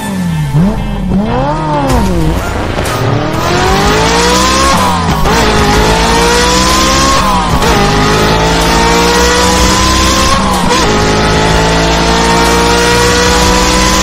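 Car engine accelerating hard through the gears: after revving up and down in the first two seconds, its pitch climbs steadily and drops at each shift, about five, seven and a half and ten and a half seconds in.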